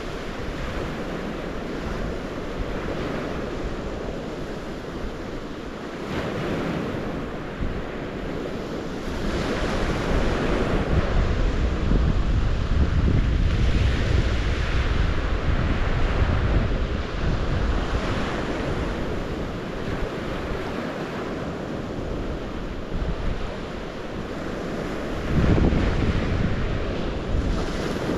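Water of the St. Lawrence washing in steadily, swelling and easing like waves, with wind rumbling on the microphone. A louder surge comes in about 25 seconds in.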